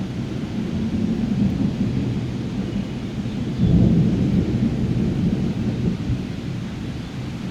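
Thunder rumbling low and continuously over steady rain, swelling to its loudest about halfway through before easing off.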